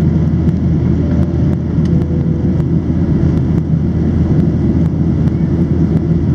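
Steady cabin noise of a Boeing 737-700 in flight, its jet engines and the airflow over the fuselage making an even rumble that sits mostly in the low range.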